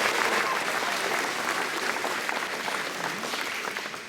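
Audience applauding, many hands clapping, the applause dying away gradually.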